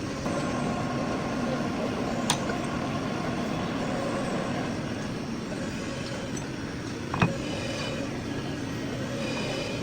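Metal lathe running with a steady mechanical hum, with two sharp metallic clinks about five seconds apart.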